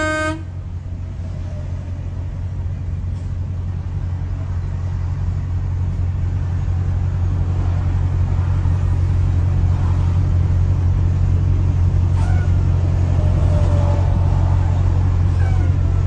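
A car horn sounds and cuts off about half a second in. After it comes a steady low rumble of a vehicle driving, growing slowly louder.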